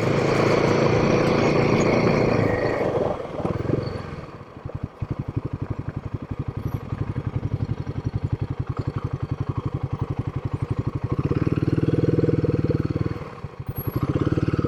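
Single-cylinder engine of a Royal Enfield Himalayan 452 motorcycle under way. It pulls strongly for the first few seconds, then eases off to a slow, evenly pulsing low-revving beat. About eleven seconds in it pulls up again, then dips near the end.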